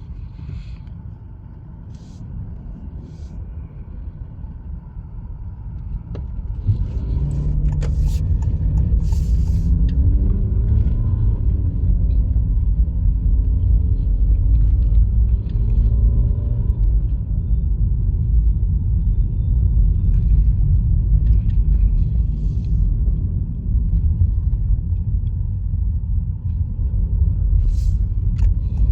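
A Honda Fit driving on a winter road: steady low rumble of tyres and engine that grows louder about seven seconds in, with the engine's pitch rising and falling for a while after.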